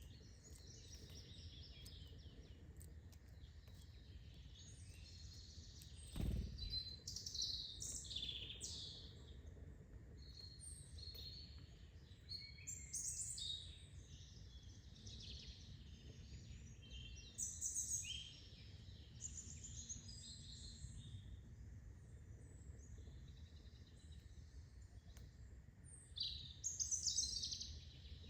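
Wild songbirds chirping and singing, with many short high notes and quick phrases scattered throughout, over a steady low background rumble. A single low thump comes about six seconds in.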